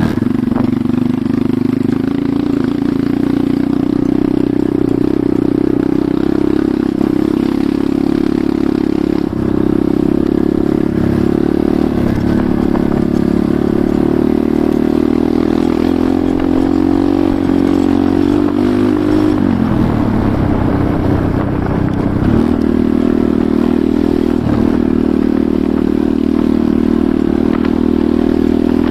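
Enduro motorcycle engine running steadily while riding. The engine note holds at an even pitch, drops briefly about two-thirds of the way through, then picks back up.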